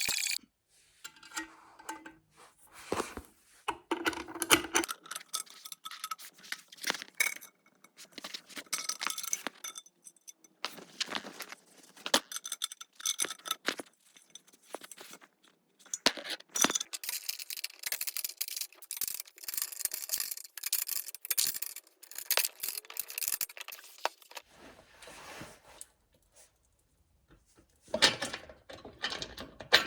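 Irregular clinking, tapping and knocking of small hard objects being handled, with short pauses, a lull near the end and then a few louder knocks.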